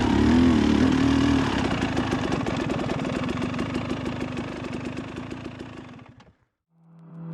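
Two-stroke dirt bike engine revved up and down a few times, then running steadily as it fades out. Music starts near the end.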